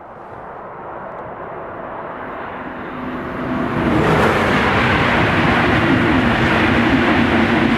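High-speed train passing at speed beneath the bridge: a rushing noise of wheels and air that swells over the first few seconds and turns loud and steady from about four seconds in as the carriages go by, with a low hum under it.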